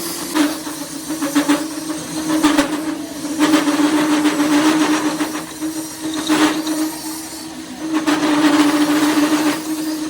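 A machine running with a steady hum, with several louder bursts of harsh hissing noise, each about one to two seconds long.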